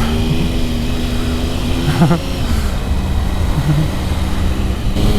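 Motorcycle engine running at a steady, moderate speed, with low wind rumble on the helmet-mounted microphone. The engine note dips slightly about halfway through.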